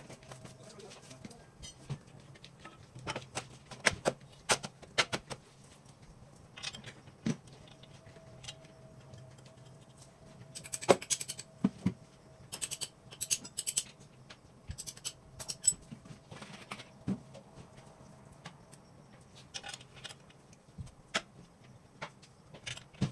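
Irregular metallic clinks, taps and knocks of hand tools and parts being handled, busiest about halfway through, over a faint steady hum.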